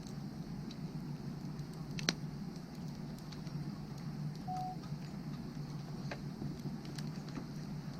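Wood fire burning, with scattered sharp crackles and pops over a steady low rumble; one louder pop comes about two seconds in.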